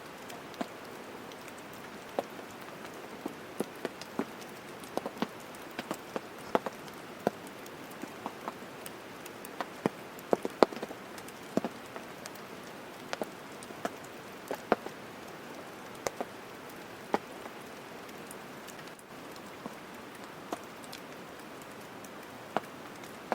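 Rain falling: a steady hiss with irregular, sharp drops striking close by, a few each second.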